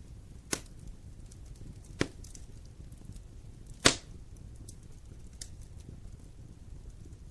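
Wood fire burning in a fireplace: faint steady crackling over a low rumble, with three sharp pops from the burning logs, the loudest about four seconds in.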